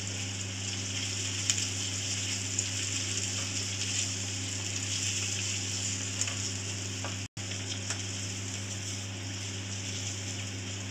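Onions, green chillies, cashews, garlic and dried red chillies sizzling in hot oil in a steel kadhai, stirred with a wooden spatula that scrapes and taps against the pan, over a steady low hum. The sound cuts out for an instant about seven seconds in.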